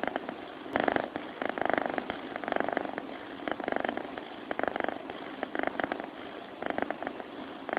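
A sleeping cat making rhythmic, rattling, purr-like breaths, roughly one a second.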